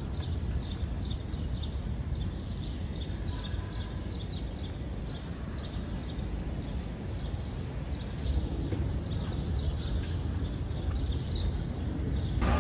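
A bird chirping over and over, short high chirps about two or three a second, over a steady low rumble of outdoor background noise.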